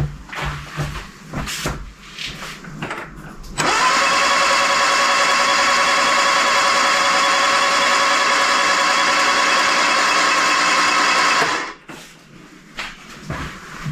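Starter motor cranking a freshly rebuilt 1311cc A-series engine with its spark plugs out, priming the oil pump and fuel system. It starts a few seconds in and runs steadily for about eight seconds before stopping, cranking smoothly with no squeaks or bangs.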